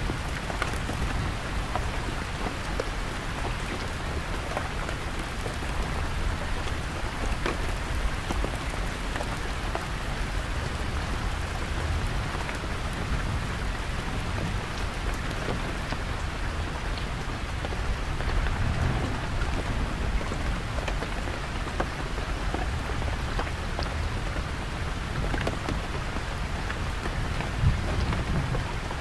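Heavy rain falling steadily on a canvas tent, a dense even patter. Low rumbles of distant thunder swell under it past the middle and again near the end.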